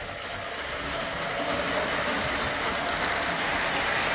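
A train rolling on its track: a steady rolling rumble with a clickety-clack character that grows louder over the first second or so and then holds.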